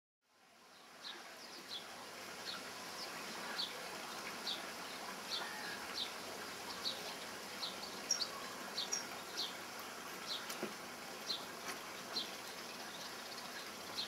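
Common linnet giving short, sharp high chirps, one or two a second at an uneven pace, with a couple of higher notes about halfway through, over a steady faint background hiss.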